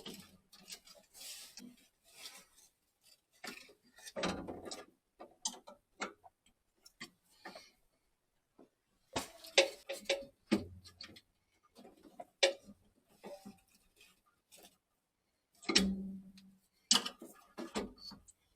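Scattered clicks and taps with a few duller knocks, at irregular intervals, from boiler parts and tools being handled and fitted during repair work.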